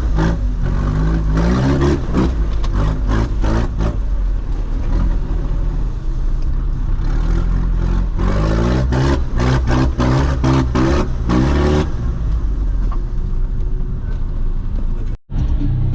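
Off-road vehicle engine revving up and down over and over, with rattling knocks throughout. The sound cuts out for an instant near the end.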